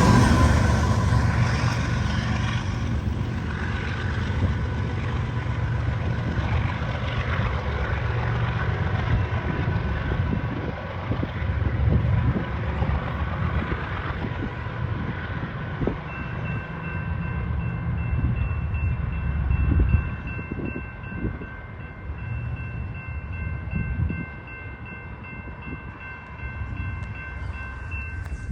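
A train running past on the main line, wheels rumbling and knocking over the rails, loudest at first and gradually fading as it moves away. From about halfway on, a steady high ringing tone is heard.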